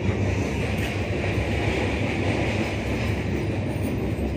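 Train running across a riveted steel truss bridge, heard from aboard the train as a steady rumbling noise.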